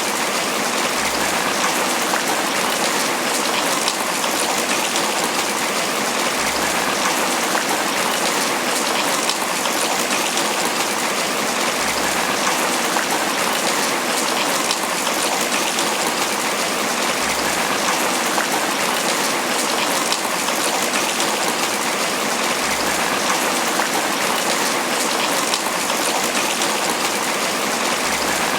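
Steady tropical rain falling on banana leaves, an even, unbroken patter.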